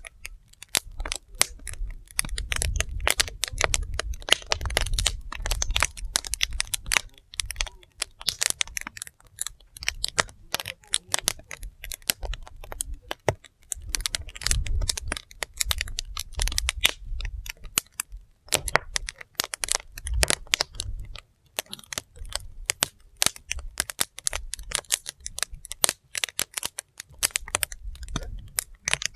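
Wood fire burning, with dense, irregular crackling and popping of the logs over a low, uneven rumble.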